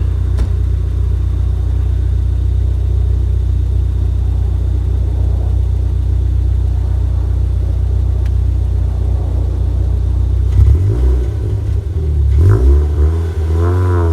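Supercharged Mazda MX-5's four-cylinder engine, fitted with a Cobra exhaust, running at a steady low idle, then revving and pulling away about ten seconds in, its note climbing as it accelerates.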